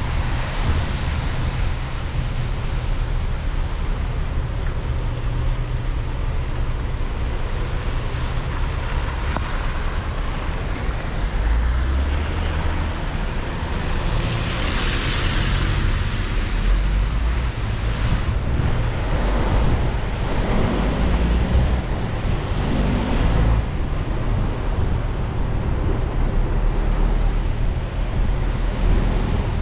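Car driving on a wet street: a steady low rumble of road noise with a hiss of tyres on the wet surface. A louder hiss swells for a few seconds near the middle.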